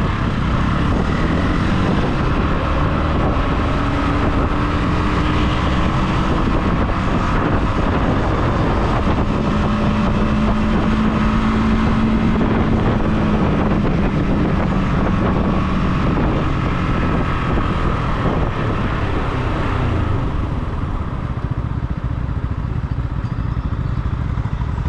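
Motorcycle engine running on the move, its note sliding up and down, under a thick rush of wind and road noise on a GoPro microphone. The sound gets quieter about twenty seconds in.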